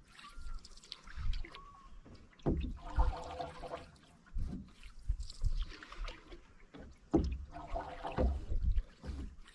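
Canoe paddle strokes in calm water: two strokes several seconds apart, each a swish of water with a low knock, and light trickling and dripping between them.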